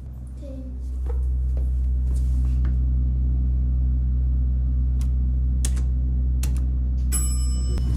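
1983 Baxter & Sons elevator running: a steady low hum that swells about a second in as the machine comes up to speed, with scattered light clicks and a brief high ringing tone near the end.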